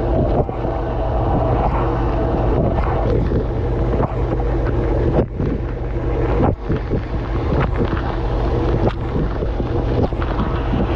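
Dishwasher running its cycle, heard from inside the tub: water from the spray arms pelting the dishes and the camera over a steady low hum of the circulation pump motor, with a few brief dips in the spray.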